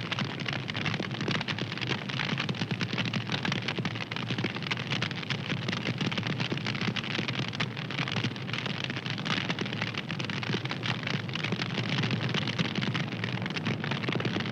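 Wood fire crackling steadily: a dense stream of small pops and snaps over a low rush of flame.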